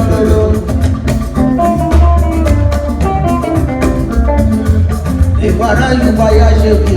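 Upbeat band music with a heavy bass line and dense, regular percussion, played by a Yoruba party band.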